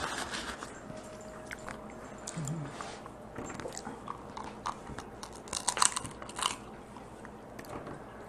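Close-up eating of Dungeness crab: chewing and scattered sharp crunches, loudest in a cluster of cracks about five and a half to six and a half seconds in.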